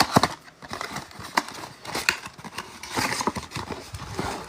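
Cardboard card boxes and foil packs being handled on a table: irregular taps, knocks and clicks with a little crinkling of wrappers.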